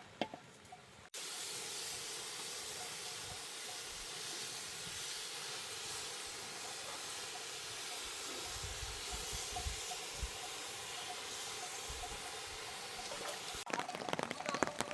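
Heavy rain falling steadily, an even hiss that starts abruptly about a second in and cuts off suddenly near the end.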